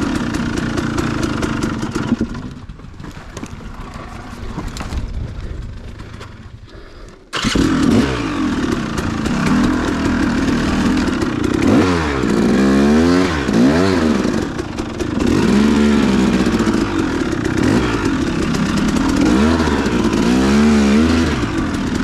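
Dual-sport dirt bike engine being ridden off-road. It drops to a lower, quieter running for a few seconds, comes back in loud and sudden about seven seconds in, and then revs up and down several times as the throttle is worked.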